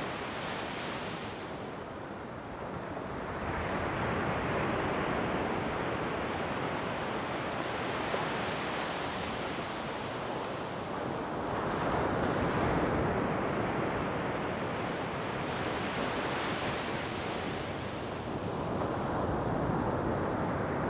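Ocean waves breaking and washing in, the surf swelling and fading every few seconds.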